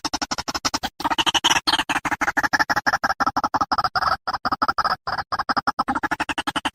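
White-breasted waterhen calling: a rapid run of harsh, clucking notes, about ten a second, with a few brief breaks.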